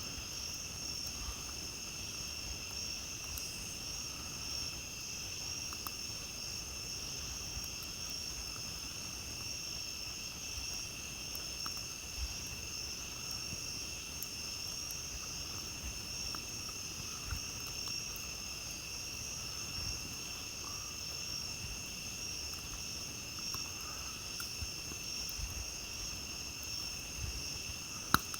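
Steady chorus of night insects trilling at two high pitches, over faint crackling from a campfire, with one sharp pop near the end.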